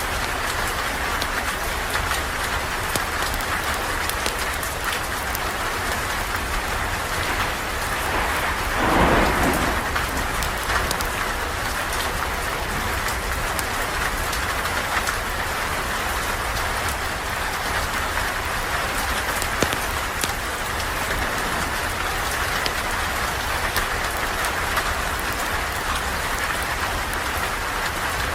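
Steady heavy rain, with scattered sharp ticks and a brief louder swell about nine seconds in.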